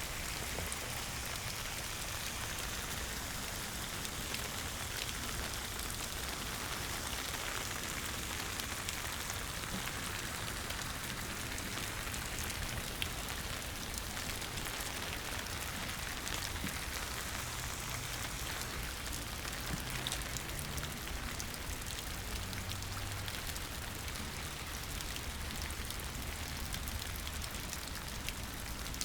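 Steady rain falling and splashing on surfaces, with many small drop ticks scattered throughout.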